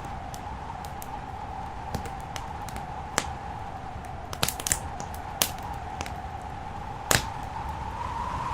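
Wood fire crackling in a fireplace, with irregular sharp pops and snaps, the loudest about seven seconds in, over a steady rushing background that grows a little louder near the end.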